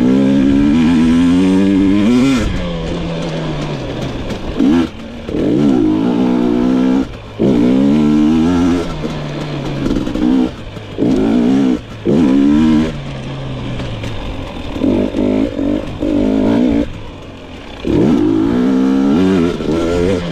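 2022 GasGas EX 250 fuel-injected two-stroke dirt bike engine revving hard under riding, its pitch climbing in one surge after another with the throttle chopped in short gaps between, about seven or eight surges in all.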